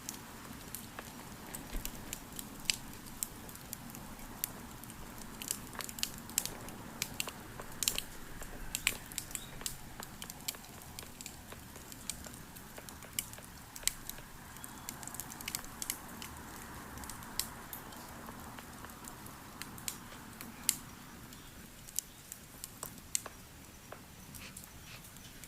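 Campfire crackling: many irregular sharp pops and snaps over a low steady background.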